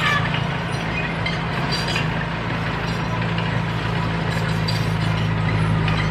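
Bulldozer's diesel engine running steadily, with a few sharp metallic clinks over it.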